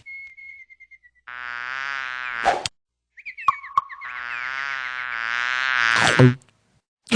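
Frogs calling: two long, buzzing croaks, the second longer and swelling louder before it stops abruptly, with a few short chirps between them and a faint thin whistle at the start.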